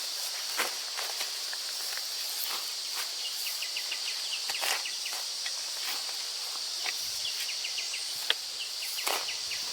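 Steady high-pitched drone of insects, with scattered rustles and clicks and short runs of quick high chirps.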